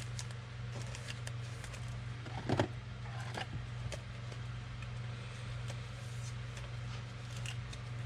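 Trading card packs and cards being handled: faint rustling and light clicks, one a little louder about two and a half seconds in, over a steady low hum.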